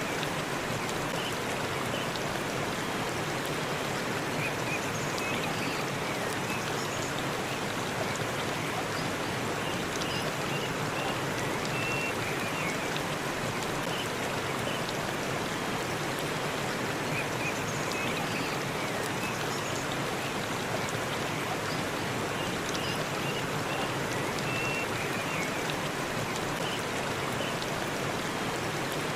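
Forest waterfall running steadily: an even, unbroken rush of falling water, with faint short high chirps now and then.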